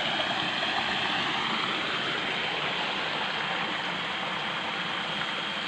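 Water of a small stream flowing steadily, an even rushing noise with no breaks.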